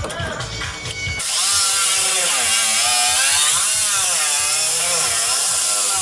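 Handheld power tool cutting through car body sheet metal, starting in earnest about a second in; its pitch sags and recovers as it is loaded. Background music with a steady beat plays underneath.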